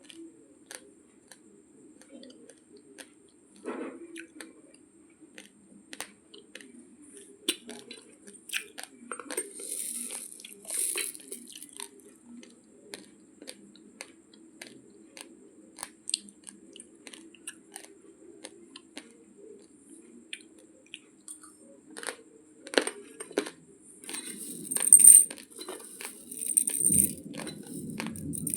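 Raw, uncooked basmati rice grains being crunched between the teeth: a run of sharp, irregular cracks and clicks, with a few louder, noisier crunches near the end.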